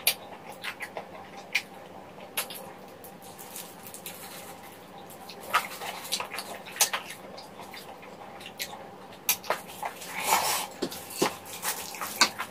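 Close-miked chewing of spicy chicken feet and rice cakes: irregular wet clicks and smacks from the mouth, with a slightly longer sucking sound about ten seconds in.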